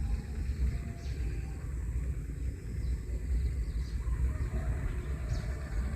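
Strong wind buffeting the microphone, a gusting low rumble, with a few faint high chirps from birds or insects.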